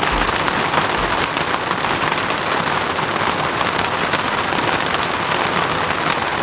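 Heavy rain falling hard, a dense, steady hiss of drops.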